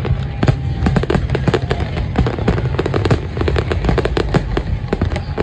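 Fireworks going off in rapid succession: a dense, continuous run of sharp bangs and crackles, several a second, over a low rumble.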